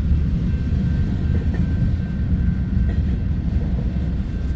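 Loaded auto rack cars of a freight train rolling past, a steady low rumble of wheels on rail.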